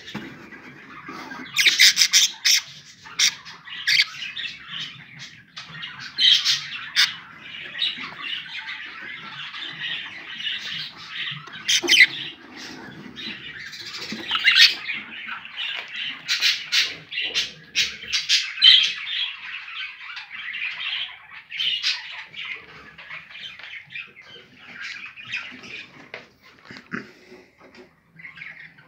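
Budgerigars chattering continuously, with many sharp, loud squawks mixed in.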